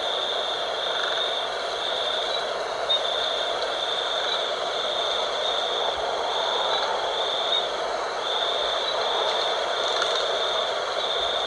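Steady night wind, with a high-pitched insect trill repeating in pulses about a second long.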